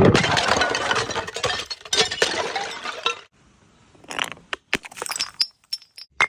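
Glass bottle shattering: a sudden crash followed by about three seconds of dense clattering shards, then scattered clinks and small ticks of pieces settling, with a brief ringing tinkle near the end.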